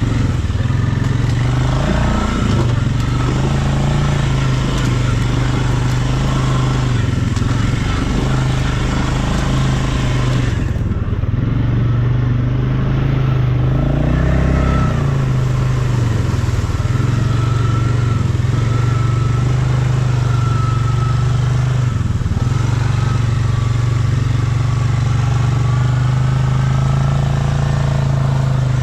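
ATV engine running continuously as it is ridden, its pitch dipping and rising briefly a few times with the throttle.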